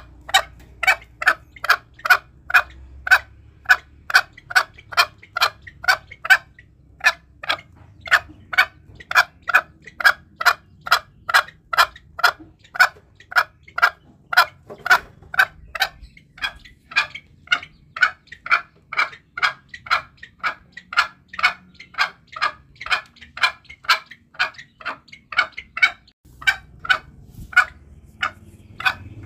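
Green junglefowl clucking in a long, even run of short calls, about two or three a second, with a brief pause near the end.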